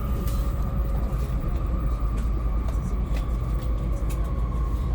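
Shinkansen bullet train running, heard from inside the passenger car: a steady low rumble with a faint high whine held throughout.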